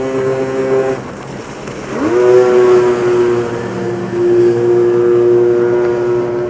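Racing jet ski engines running at high revs: a steady whine fades about a second in, then another engine rises in pitch near two seconds and holds a loud, steady high whine.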